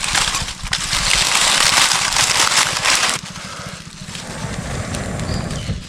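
Rough scraping friction noise of wooden sticks being rubbed together to make fire by hand, dropping to a quieter hiss about three seconds in.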